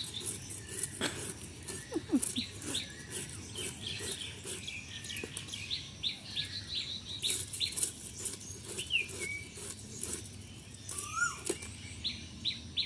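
Small birds chirping in quick, short, high falling notes, a few each second, with an occasional lower gliding call. Faint clicks and scrapes underneath come from live fish being cut on a curved blade.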